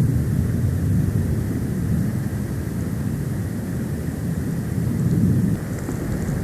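Wind buffeting an outdoor camera microphone during a snowstorm: a steady low rumble that swells and eases.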